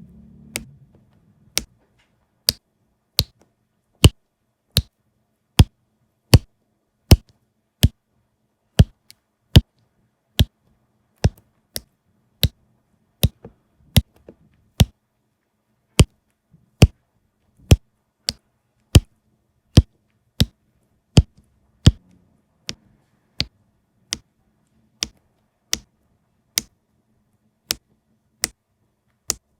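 Sharp, evenly spaced taps, about three every two seconds, of diamond-painting work: resin diamonds being pressed one by one onto the sticky canvas.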